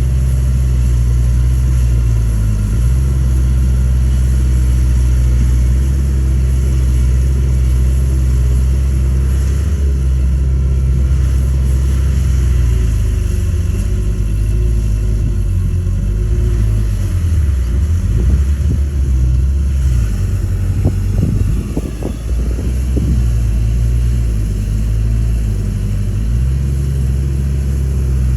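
Komatsu D31A bulldozer's diesel engine running, its note shifting up and down through the middle stretch as it works, with a few knocks a little past halfway before it settles back to a steady run.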